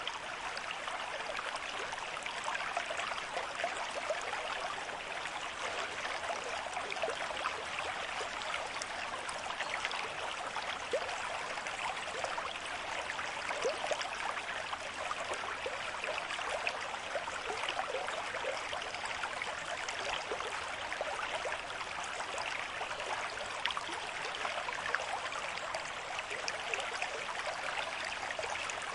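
River stream flowing at a moderate rate: a steady rush of running water full of small splashes and bubbles.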